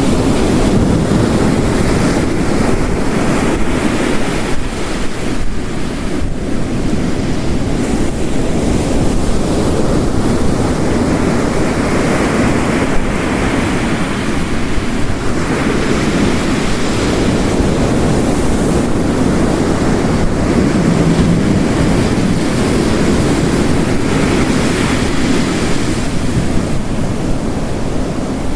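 Ocean waves crashing and washing on a shore, mixed with heavy rain. The noise is continuous and swells and eases every few seconds.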